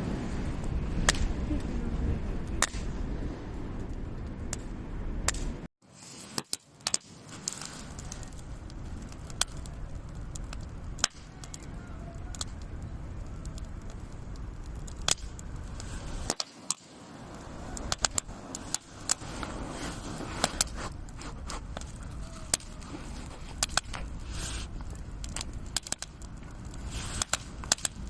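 Wood fire crackling, with irregular sharp pops over a low rumble; the sound cuts out briefly twice.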